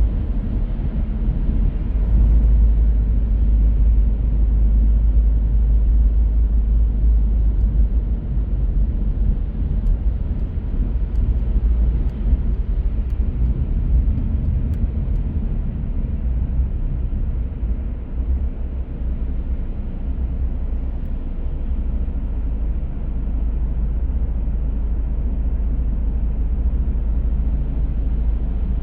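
Car on the move: a steady low rumble of engine and tyre noise, with a few faint clicks midway.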